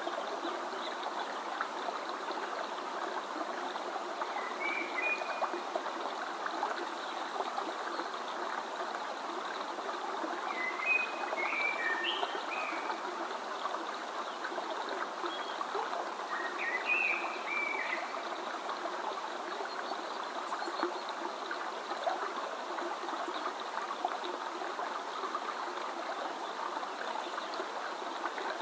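A stream running steadily, with birds chirping briefly three times over it, the middle spell the longest.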